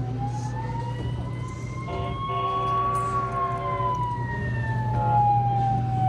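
Fire engine kiddie ride playing its siren sound effect: one slow wail that rises and then falls back over about six seconds, with a steady low hum underneath.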